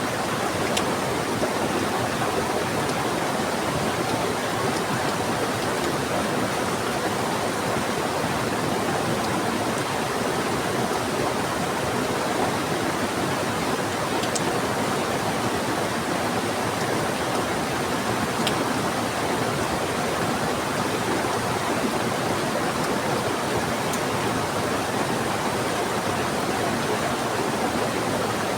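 Steady rushing of a swift river, an even, unbroken roar of flowing water with a few faint ticks.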